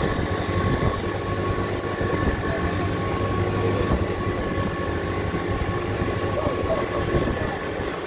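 Small motorboat's engine running steadily under throttle, a continuous drone with a rushing haze of wind and water.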